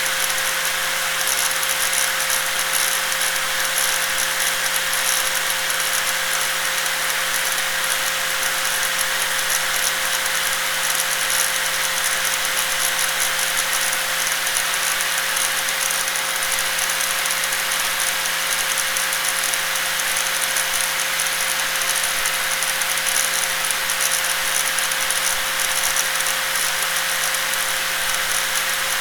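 Electric angle grinder running continuously: a steady whine with one constant tone over a dense high hiss, unchanging in pitch and level.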